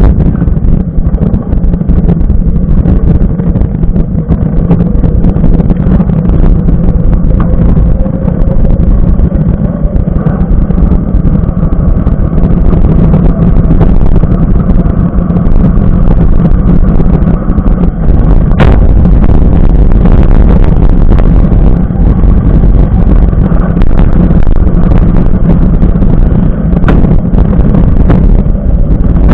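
Riding noise from a mountain bike on a trail: a loud, steady rumble of wind and tyres, with a few sharp rattles or knocks, the clearest one a little past halfway.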